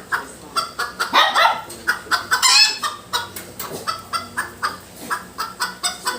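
A bird calling in a rapid series of short squawks and chatters, with louder harsh squawks about a second in and again around two and a half seconds in.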